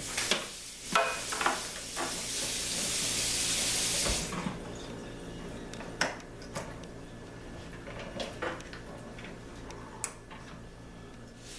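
Small clicks and scrapes of a tool working the blown cartridge fuse out of a microwave's fuse holder, sharpest in the first two seconds, then a few scattered ticks. A steady hiss runs for about two seconds, starting about two seconds in.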